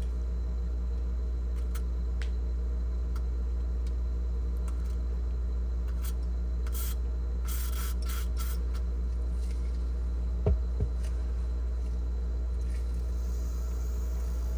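Steady low hum of a GE French-door refrigerator running with its evaporator fan motor powered but only slowly working free after being freed up with lubricant. Short scraping rustles come midway, and two quick knocks follow a little later.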